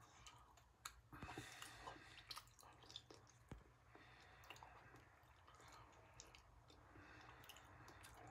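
Near silence, with a few faint, soft mouth clicks of chewing in the first few seconds.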